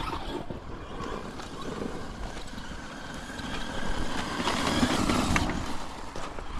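A radio-controlled truck running over rough ground, its noise swelling louder about four seconds in and falling back soon after.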